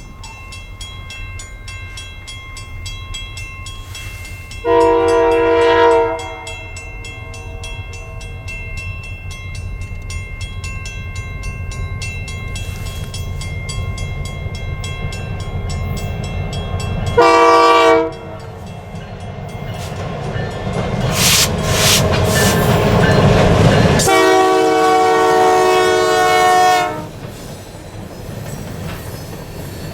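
Diesel locomotive air horn sounding three times over the steady rumble of the locomotive and its train: a blast of about a second, a short one, then a long one of nearly three seconds. The horn is a chord of several notes, and the rumble and wheel noise grow louder near the end as the train comes closer.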